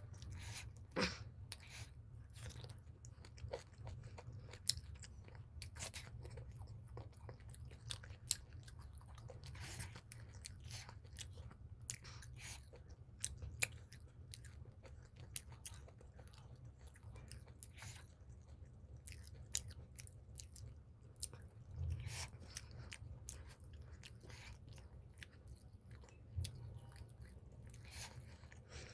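A man chewing mouthfuls of chicken liver, gizzard and paratha close to the microphone, with many small wet mouth clicks and smacks. A steady low hum runs underneath.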